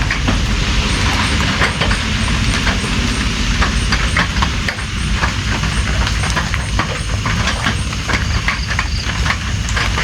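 Steady rain, a dense hiss with a deep low rumble and many irregular sharp taps of drops striking close by.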